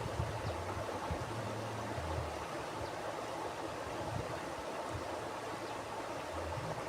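Mountain river flowing, a steady rushing of water with an uneven low rumble underneath.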